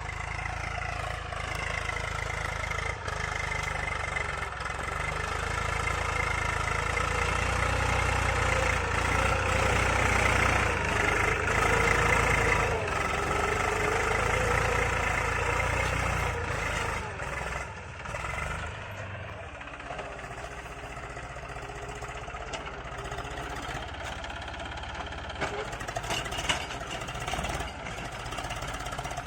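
Eicher 380 tractor's diesel engine running while pulling a cultivator, louder through the middle stretch, then easing to a lower, steady run after about eighteen seconds.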